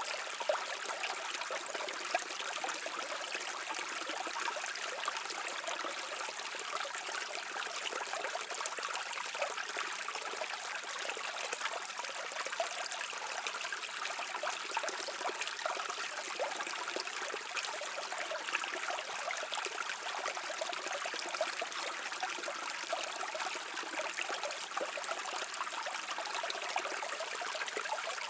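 Brook flowing steadily: an even, unbroken rush of running water.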